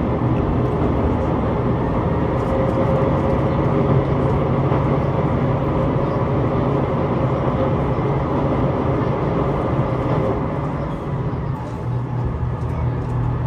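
Passenger train running, heard from inside the carriage: a steady rumble of wheels on rail with a low hum, while crossing a steel girder bridge; it gets a little quieter near the end.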